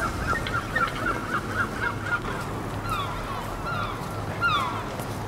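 Birds calling: a fast run of short calls in the first two seconds, then several falling calls, over a steady low hum.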